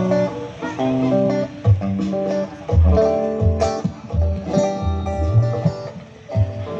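A live band playing an instrumental passage through a large PA sound system at a sound check: a plucked guitar melody over low bass and drum hits.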